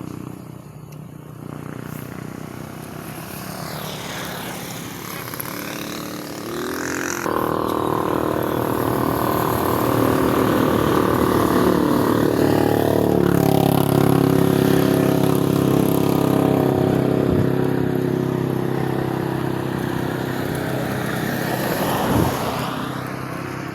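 A vehicle engine running, louder and at a steady pitch from about seven seconds in.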